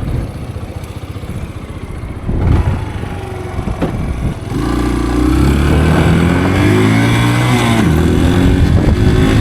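Dirt bike engine ticking over unevenly, then about four and a half seconds in it revs up and pulls away, the pitch rising and dropping once at a gear change near the end.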